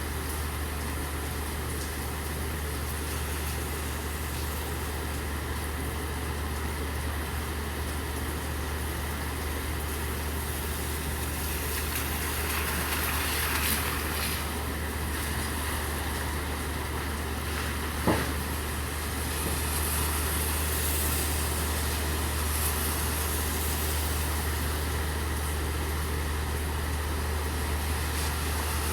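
Steady rain hiss with a vehicle engine idling as a constant low hum underneath. The hiss swells twice, and a single sharp knock sounds once, past the middle.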